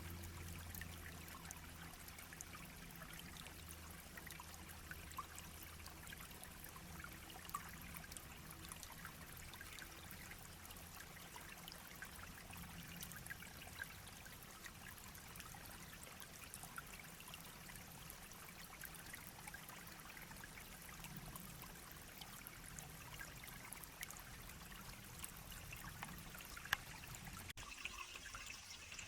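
Small shallow stream babbling and trickling over stones, a faint, steady water sound. Near the end the sound of the water changes abruptly.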